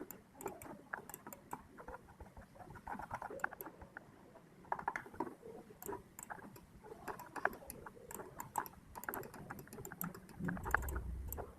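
Faint, irregular tapping of computer keyboard keys, many separate clicks with uneven gaps.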